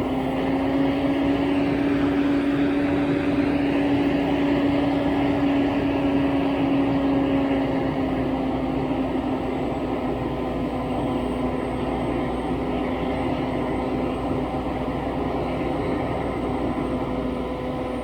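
Large engine of a work vehicle droning steadily with a held low tone, its pitch and loudness easing slightly about eight seconds in.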